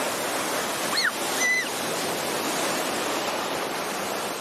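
Steady rushing noise, with two short high squeaks about a second in.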